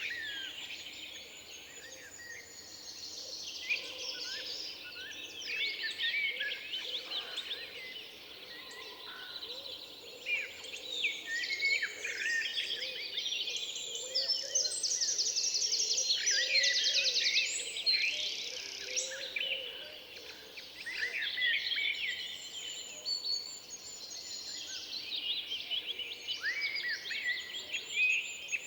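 Several songbirds singing at once in a dense, overlapping chorus of chirps, whistles and trills, with a fast high trill about halfway through.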